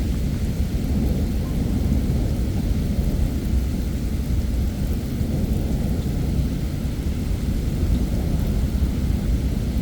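Heavy rain with a steady, deep rumble of rolling thunder underneath, with no sharp cracks.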